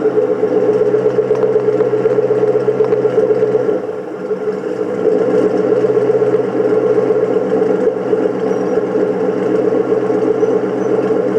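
2001 Ford Mustang GT's 4.6-litre V8, fitted with an aftermarket exhaust, idling steadily just after a cold start. It dips briefly about four seconds in.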